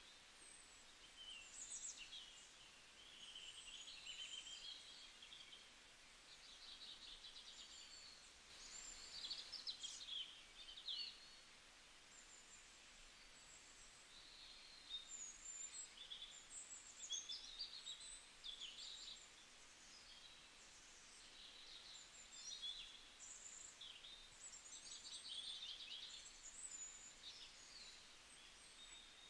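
Faint chirping and twittering of small birds, many short high calls scattered throughout, over a low background hiss.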